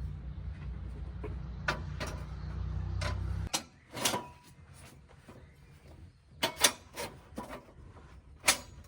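A steady low rumble that cuts off abruptly about a third of the way in, followed by a few short, sharp knocks and clicks, two close together near the middle and one more near the end.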